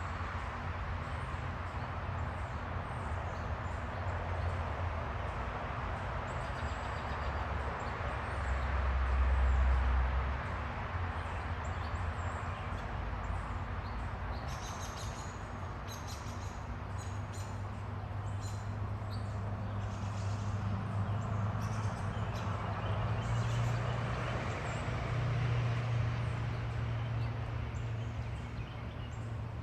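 Small backyard birds chirping in quick short notes, mostly in the second half, over a steady outdoor hum with a low rumble that swells briefly about a third of the way in.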